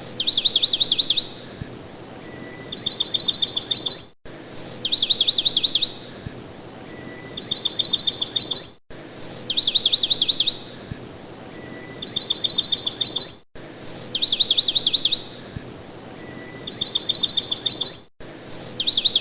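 A bird call looped over and over, the same pattern about every four and a half seconds: one clear high note, then a quick trill of falling sweeps, then a second, faster trill a moment later.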